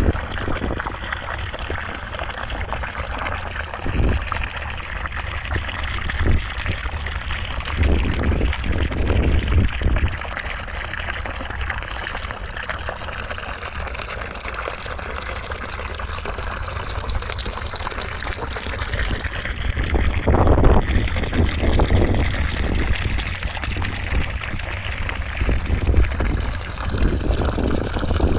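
Steady rushing white noise that sounds like gushing water, its colour drifting slowly, with brief louder surges about eight seconds in and again about twenty seconds in.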